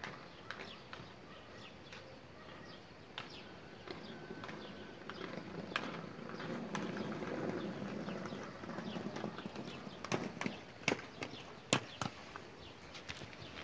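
Birds chirping, with a low rumble swelling in the middle and a run of sharp clicks and knocks near the end.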